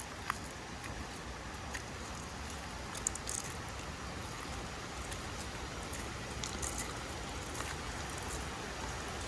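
Wood fire burning: a steady hiss with scattered small pops and crackles.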